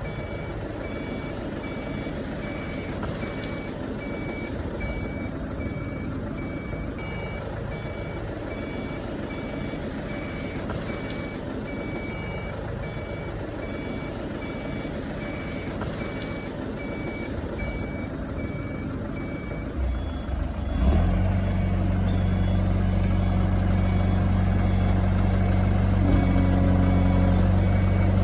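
Heavy earthmoving machinery: a backup alarm beeping about once a second over a running diesel engine. The beeping stops about two-thirds of the way through, and a diesel engine then runs much louder and steady.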